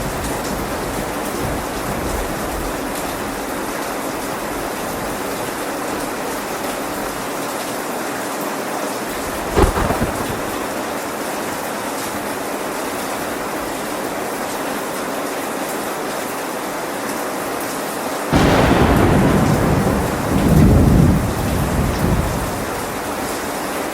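Steady rain with thunder: a brief sharp thunderclap a little before halfway, then a rumble of thunder that breaks in suddenly about three-quarters of the way through, swells for about four seconds and fades back under the rain.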